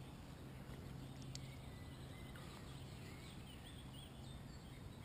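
Faint outdoor ambience: a low steady hum with a few short small-bird chirps about halfway through.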